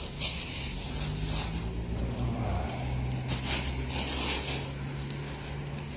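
A steady low engine hum, as of a vehicle idling, with brief rustling bursts now and then.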